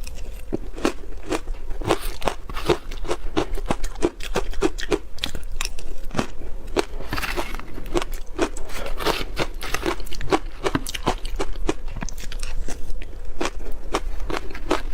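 Ice being chewed close to the microphone: a continuous, rapid crunching of sharp cracks, several a second.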